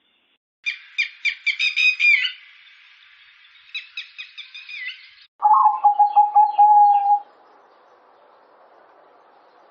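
Button quail calling: a run of quick, high chirps, a quieter run of chirps, then a lower, rapidly pulsed call that cuts off abruptly, followed by faint hiss.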